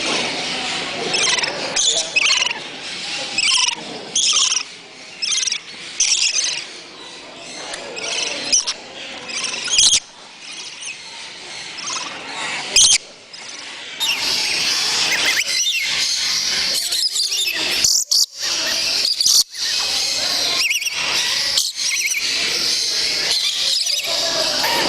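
Many birds chirping and calling together, a dense high twittering, with a run of repeated chirps in the first few seconds and several abrupt breaks partway through.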